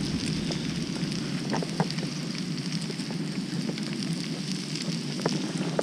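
Pork belly, garlic and kimchi sizzling on a griddle pan: a steady crackle with a few sharp pops.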